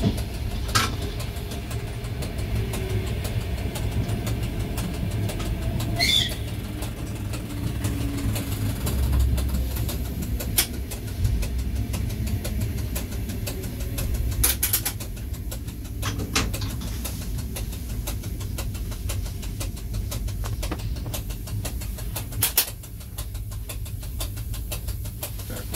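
Cab of an ER2T electric multiple unit rolling and braking into a station: a steady low rumble with scattered sharp clicks and a brief high squeal about six seconds in. It gets a little quieter near the end as the train comes to a stop.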